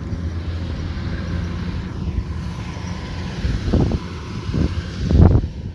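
Kubota combine harvester running steadily, a low engine drone, with a few louder swells late on, the loudest just before the end.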